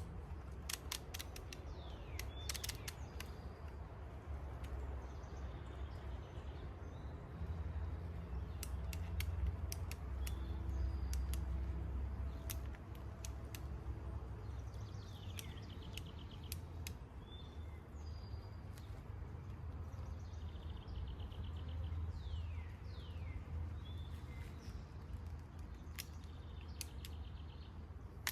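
Birds calling outdoors with short falling chirps, over a low steady rumble, with scattered sharp clicks.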